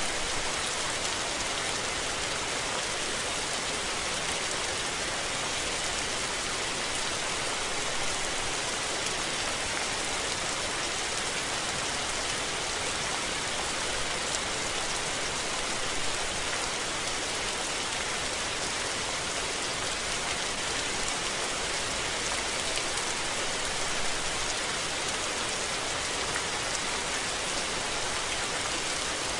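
Steady rain falling, a dense even patter of drops on surfaces with no let-up or thunder.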